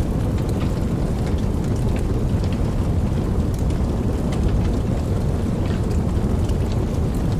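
Steady rain falling, with individual drops ticking sharply over a deep, continuous low rumble.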